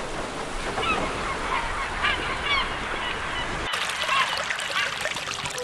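Repeated short bird calls over a steady rushing noise, which cuts off abruptly a little past halfway as fewer calls carry on.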